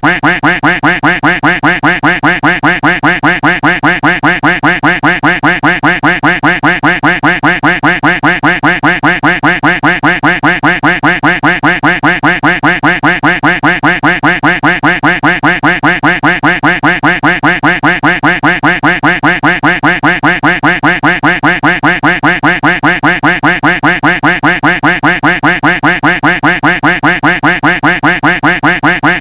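Duck quack sound effect looped in a fast, even rhythm of a few quacks a second.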